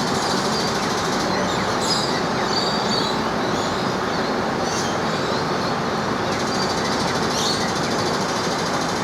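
Cane train running: a steady rumble and rattle, with a few brief high squeaks.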